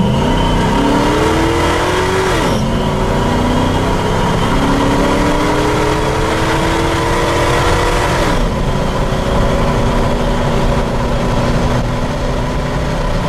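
V8 engine in a Jeep Wrangler TJ accelerating hard, heard from inside the cab: the pitch climbs, drops at an upshift about two and a half seconds in, climbs again to a second upshift about eight seconds in, then holds steady at highway speed.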